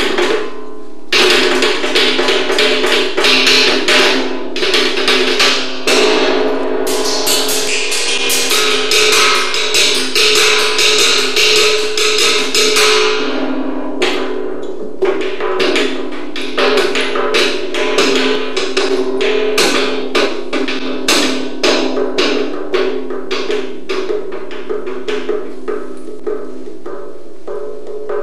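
Live percussion music: rapid hard strikes on drums and wooden percussion, very dense in the first half and thinning to a few strikes a second in the second half, over steady sustained tones.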